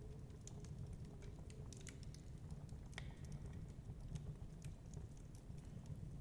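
Fireplace crackling: irregular small pops and snaps, with one sharper pop about three seconds in, over a steady low rumble.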